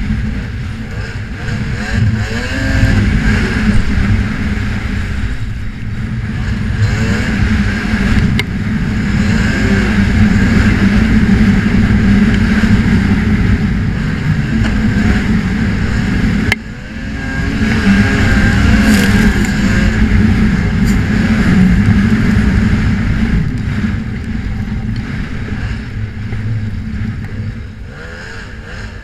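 Snowmobile engine under way, its pitch rising and falling as the throttle is worked. It drops off sharply about two-thirds of the way through, then builds again.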